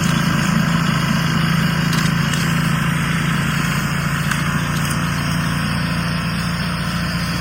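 An engine running steadily at idle: a constant low hum under an even wash of noise.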